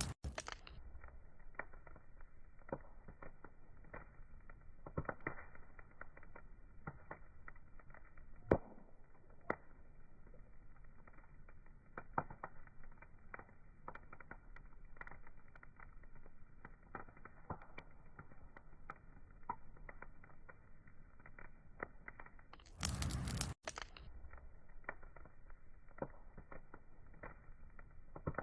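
Wood fire crackling, with irregular small pops and snaps and one sharper snap about eight seconds in. Twice, at the very start and about 23 seconds in, a brief much louder rush of hiss lasting under a second.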